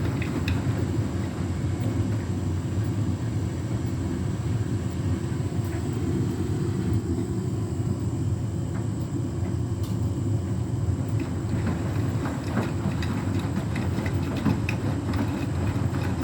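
Beko WTK104121W washing machine running in the first part of its final rinse: a steady low rumble with faint scattered clicks, and no spin-up whine. A tumble dryer is also running in the same room.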